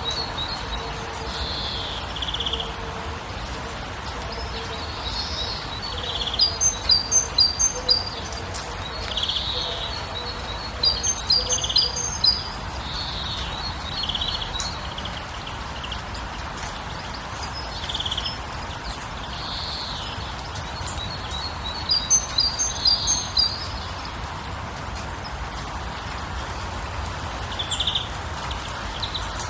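Songbirds singing: three quick bursts of high, rapid chirping notes, with scattered single calls in between, over a steady background hiss.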